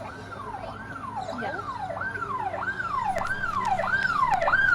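Emergency vehicle siren in a fast yelp, its pitch sweeping up and down about one and a half times a second and growing steadily louder.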